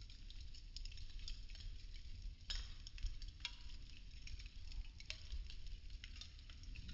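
Burning popsicle-stick wood crackling: a steady hiss with scattered sharp pops, the loudest about two and a half seconds in.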